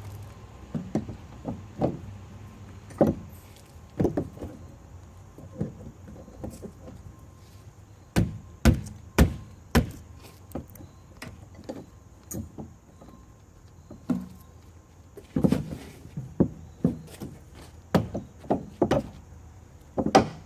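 Irregular knocks and clunks from hands-on work on a homemade tailgate built from a metal bed frame, brackets and wood: parts handled and struck, with three sharp strikes about half a second apart around the middle and a busier run of knocks near the end.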